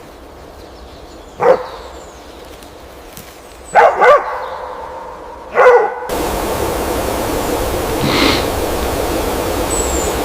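Four short, loud barks, two of them close together in the middle. About six seconds in, a steady rush like flowing water sets in, and one fainter bark sounds over it.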